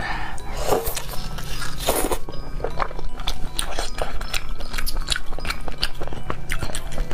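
A person biting and chewing meat, irregular crisp clicks and crunches with a few louder bites about one and two seconds in.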